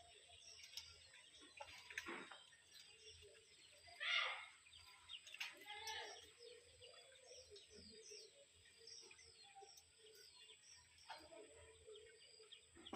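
Faint bird calls: many small birds chirping high and scattered, with a few soft low dove coos now and then and one louder short call about four seconds in.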